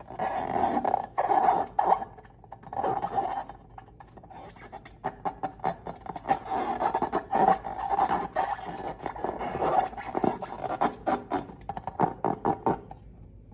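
Close-up handling sounds of slime and balloons: crackling, scraping and squeaky rubbing in bursts, with short lulls about two and four seconds in.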